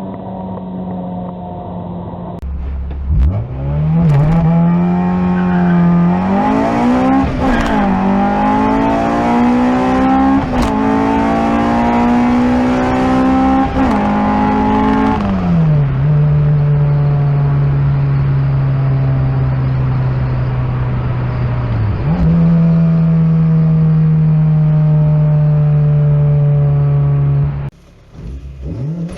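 Honda B-series four-cylinder VTEC engine accelerating hard under load, heard from inside the car. Its pitch climbs steadily into high revs, with a brief drop at a gear change. It then holds a steady high-rev note for several seconds, steps up once and holds again before cutting off near the end.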